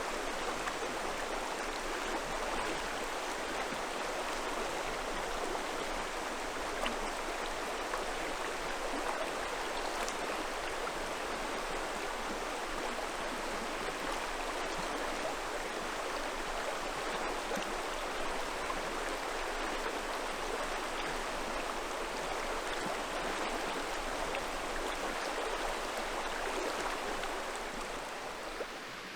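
Steady rushing of a river's flowing water, easing off slightly near the end.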